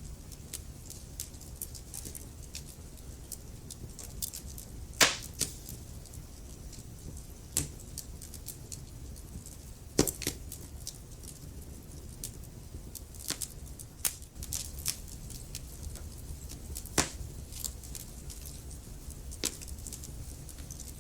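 Wood fire crackling in a fireplace: a steady low rumble of the flames with scattered small crackles and a few louder pops, the sharpest about five and ten seconds in.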